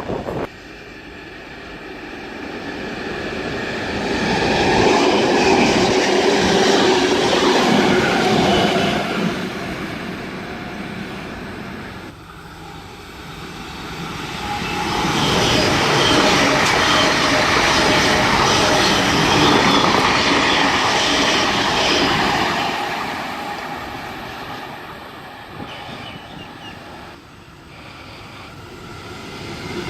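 A train passing at speed: its rumble and wheel noise build up, hold for several seconds and fade away. After a sudden break, a second train passes the same way.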